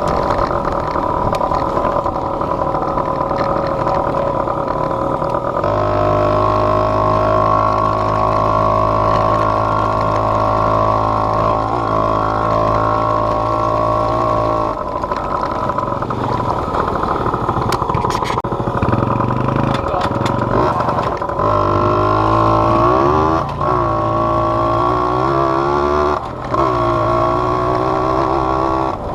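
Small off-road vehicle's engine running under the rider. Its pitch steps up about six seconds in and holds steady for several seconds, then rises and falls with the throttle, dipping briefly twice near the end.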